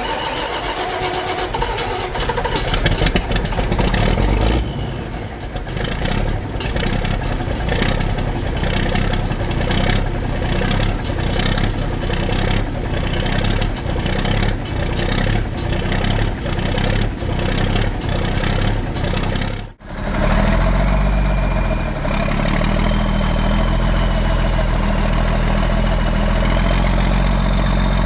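John Deere 4630's straight-piped six-cylinder diesel starting up and running with an even, repeating pulse. After a sudden brief dropout about twenty seconds in, it idles steadily.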